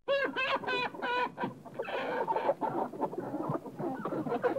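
Chickens clucking: a quick run of loud, sharp calls starting suddenly, then steady overlapping clucking from several hens.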